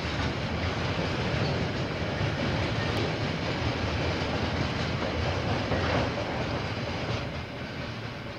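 KiwiRail freight train's container wagons rolling past on the rails, a steady rumbling rattle that begins to fade about seven seconds in as the end of the train goes by.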